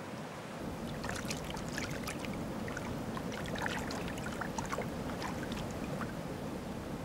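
Icy mountain river flowing: a steady rush of water with many small splashes and gurgles that pick up about a second in.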